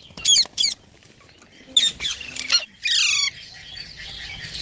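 Indian ringneck parakeet squawking: two short, sharp screeches just after the start, a few more around two seconds in, and a harsh falling call about three seconds in.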